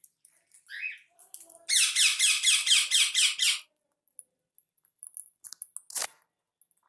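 A caged pet bird calling: one short rising call, then a rapid run of about ten high calls, roughly five a second. A single sharp click follows near the end.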